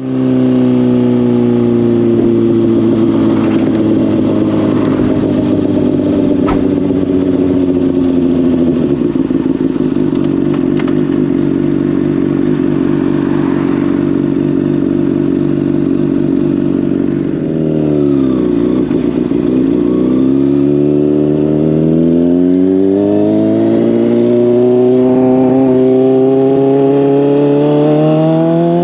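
Honda CBR600RR's inline-four running through a Hotbodies Stinger slip-on exhaust while riding. The engine note sinks slowly and then holds steady. About two-thirds through it dips briefly and recovers, then climbs steadily as the bike accelerates. A few sharp clicks come in the first several seconds.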